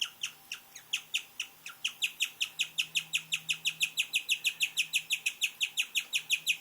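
Guinea pig chirping: a fast, regular run of short high chirps, each dropping in pitch. The chirps are sparse at first, then become steady and louder from about two seconds in, at roughly six or seven a second.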